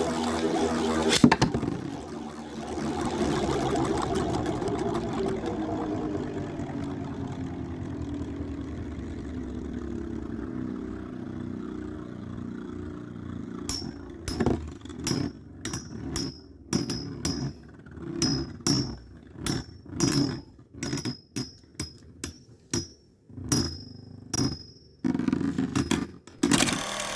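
Two metal Beyblade spinning tops, Storm Pegasis 105RF and Killer Gemios DF145FS, whirring in a plastic stadium, the whir falling in pitch as they lose spin, with a sharp clash about a second in. From about halfway, a quick irregular series of clicks and knocks as the slowing tops strike each other and the stadium.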